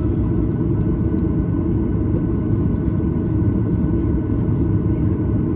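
Steady low rumble of cabin noise inside a Boeing 737-900ER on the ground: engine and air-conditioning noise heard from a rear window seat.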